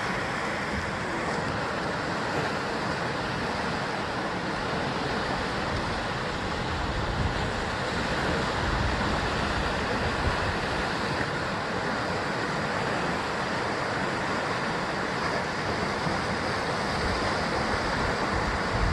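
Ocean surf washing against the rocky basalt shore: a continuous rush of breaking water, swelling slightly louder a few times.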